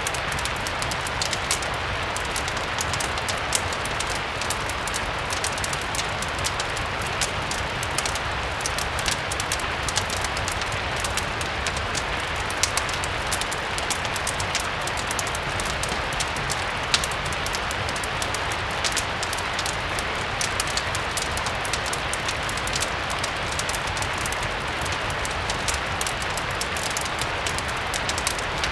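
Steady rain with a constant scatter of small sharp ticks, mixed with a crackling fireplace, over a low rumble.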